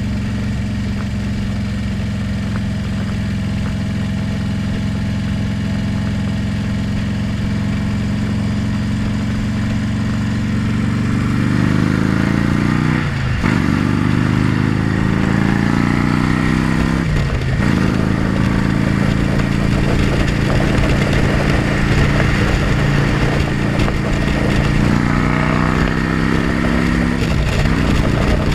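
Motorcycle engine running steadily, then accelerating about eleven seconds in and pulling up through the gears, with three gear changes where the pitch drops and climbs again. Wind rush grows on the helmet-mounted microphone as speed builds.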